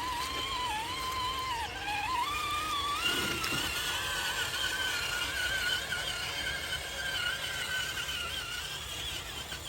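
RC car's motor whining, its pitch wavering as the throttle changes and stepping up about three seconds in as the car speeds up.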